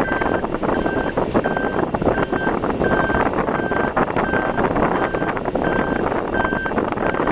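Car driving in typhoon weather: a dense rush of wind, rain and road noise. Over it, a short high electronic beep repeats steadily about one and a half times a second.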